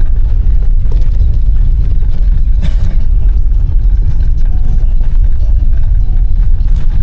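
Car driving, a loud steady low rumble, with a short burst of noise about two and a half seconds in.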